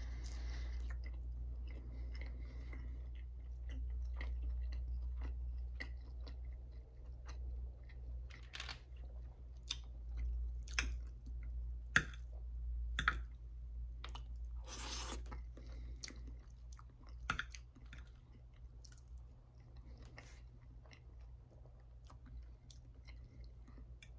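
Close-miked chewing and mouth sounds of a person eating breakfast food, with scattered sharp clicks of a metal fork against the plate, over a steady low hum.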